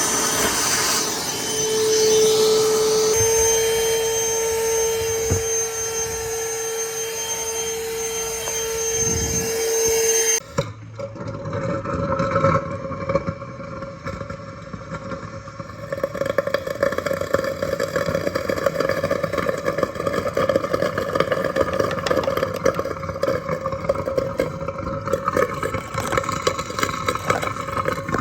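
A vacuum cleaner motor runs with a steady whine and cuts off abruptly about ten seconds in. A rougher, rattling motor sound then carries on for the rest of the time.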